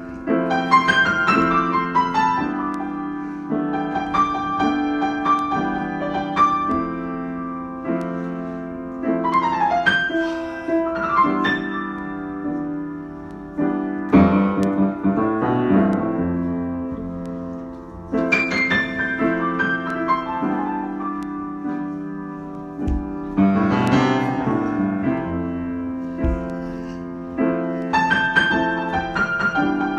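Solo piano improvising: sustained chords in the middle register, broken every few seconds by quick descending runs of notes from the treble.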